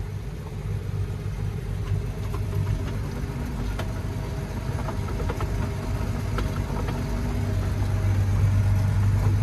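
Tractor engine running steadily with a low drone, growing a little louder over the last few seconds.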